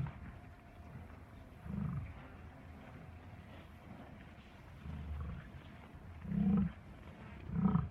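Buffalo giving four short, low calls, spaced a second or more apart; the last two are the loudest.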